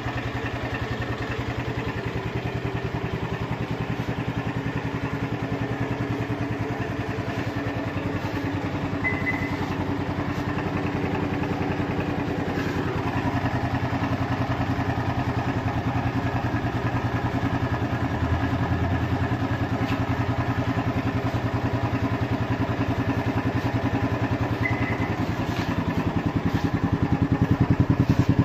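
Motorcycle engine running through its stock exhaust at a steady idle, getting a little louder near the end.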